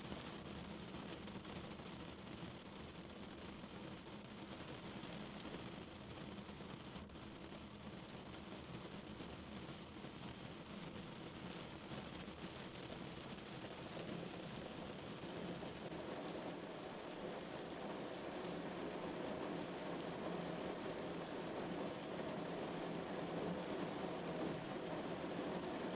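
Rain falling on a car in a steady, even patter, growing louder and fuller over the second half.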